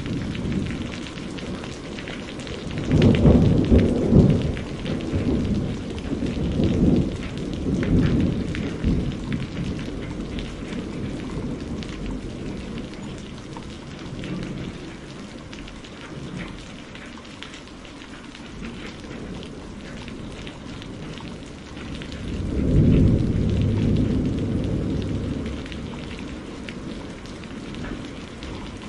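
Steady rain with thunder rolling twice: a long rumble with several peaks near the start, and another shorter roll in the last third.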